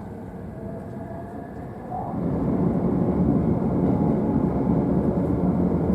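Running noise of a JR East E531-series electric train heard from the upper deck of a bilevel car: a steady low rumble of wheels on rail, with a faint motor tone at first, growing markedly louder about two seconds in.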